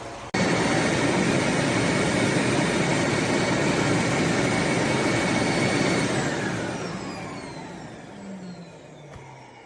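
Vacuum motor of a Eureka E20 Plus robot vacuum system running loudly and steadily with a high whine. About six seconds in it shuts off, and the whine falls in pitch as it spins down and fades.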